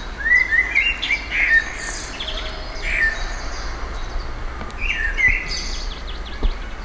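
Wild birds chirping in woodland, a few short calls scattered through, over a low steady rumble.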